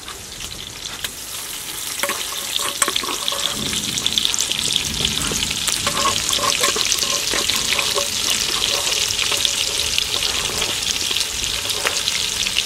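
Onions and ground pepper frying in hot oil in an aluminium pot: a steady, crackling sizzle that builds over the first couple of seconds.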